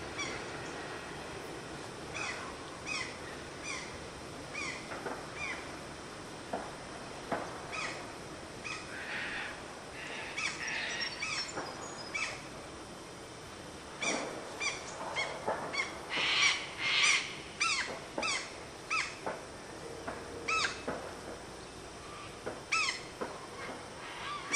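Birds calling: a short downward-sliding note repeated about twice a second in runs, with louder, rougher calls about two-thirds of the way in. The receding coal train fades out under them in the first second.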